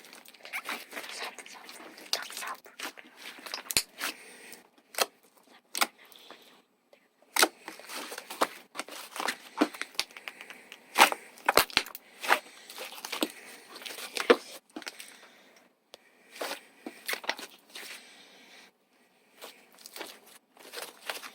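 Slime being squeezed, stretched and folded by hand, giving irregular sharp pops and crackles with a couple of brief pauses.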